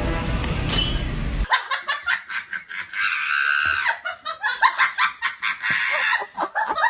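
Music that cuts off suddenly about a second and a half in, followed by a person laughing hard in rapid bursts.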